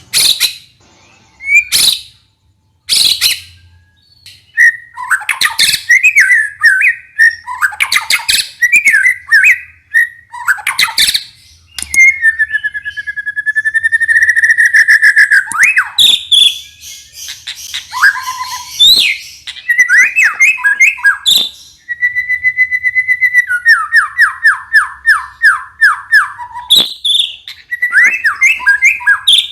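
White-rumped shama (murai batu) singing a varied song: clear whistled phrases and glides, fast trills and repeated note series, broken by harsh rattling 'kretek' notes and sharp clicks.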